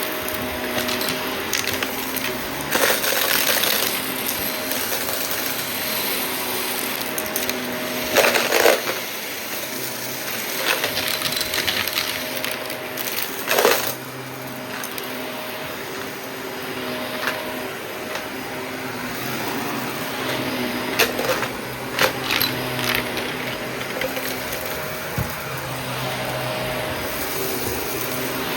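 Shark vacuum cleaner running with a steady motor hum, interrupted by short bursts of crackling and rattling as bits of debris are sucked up, a few seconds apart.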